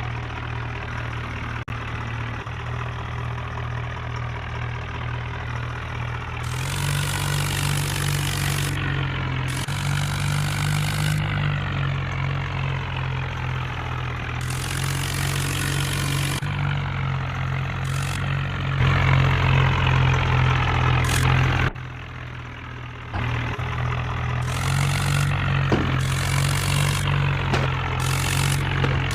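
Diesel tractor engine running steadily, then speeding up and getting louder about six seconds in and again near twenty seconds, dropping off briefly about twenty-two seconds in before picking back up.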